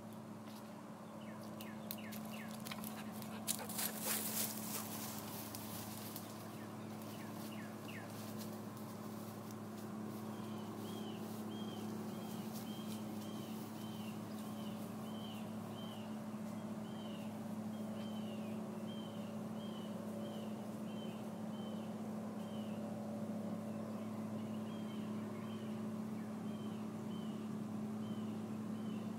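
A bird calling over and over in short hooked notes, one or two a second, over a steady low hum. In the first few seconds there is rustling and crackling in the brush.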